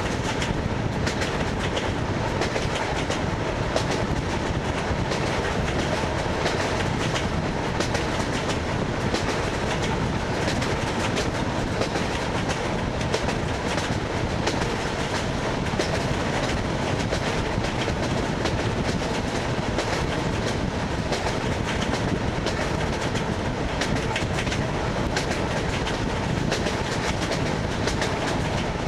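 ED9MK electric multiple unit running along jointed track: a steady rumble of the car with the clickety-clack of its wheels striking the rail joints, heard from a window of the car.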